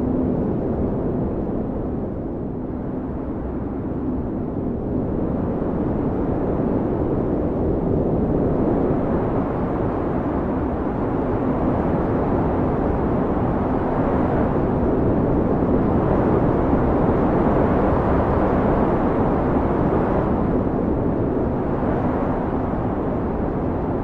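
Blizzard wind howling: a steady, low rush that builds through the middle and eases a little near the end, with a faint held tone.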